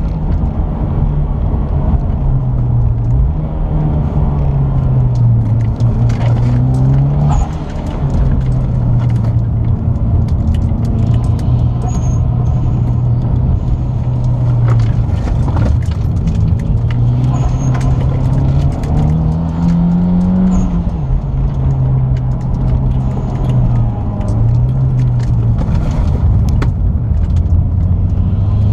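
Mitsubishi Lancer Evolution X's turbocharged 2.0-litre four-cylinder engine heard from inside the cabin on a track lap, its pitch rising and falling with the throttle. It drops off briefly about seven seconds in, holds steady for a while, rises and falls again, and climbs once more near the end, with scattered light clicks over it.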